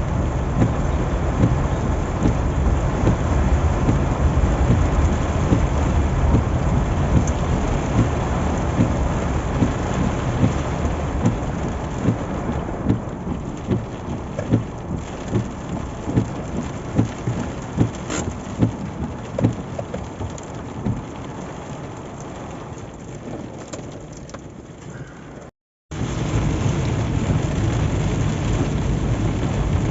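Heavy rain falling on a car on the road, a dense noise full of individual drop hits. It eases off through the middle, cuts out for a moment about 26 seconds in, then comes back as loud as at first.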